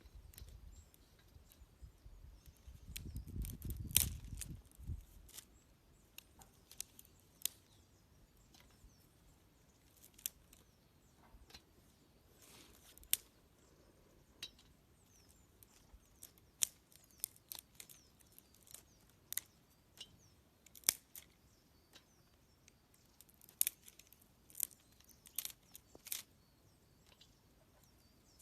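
Campfire wood crackling, with irregular sharp snaps and pops, and faint chirping of small birds behind it. A brief low rumble comes about three to five seconds in.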